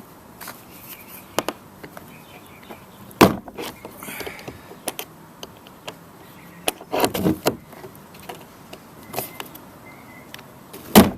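Handling clicks and knocks as pop rivets set through nylon webbing are fitted into the kayak's drilled holes. The knocks are scattered and irregular, with a loud one about three seconds in, a cluster about two-thirds through and another loud knock near the end.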